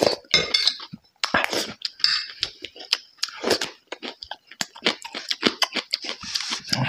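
A man chewing a mouthful of rice and chili peppers: irregular, short clicks of chewing with brief pauses between.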